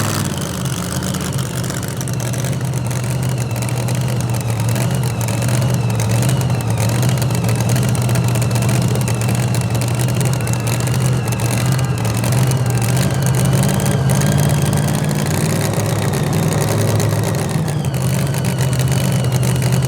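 V8 engine of a two-wheel-drive pulling tractor idling steadily at a loud, even level.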